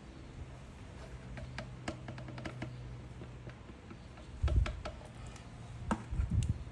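Scattered light clicks and a few dull knocks from handling the oil bottle while topping up a motorcycle's engine oil, over a faint steady low hum.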